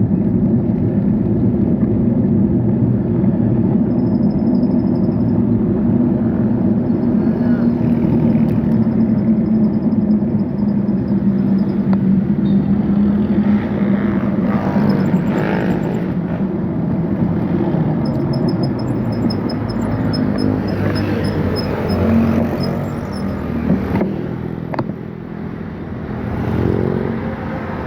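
Road traffic and wind rush heard while riding along a road: a steady low drone of vehicle engines, with other vehicles passing, easing somewhat near the end.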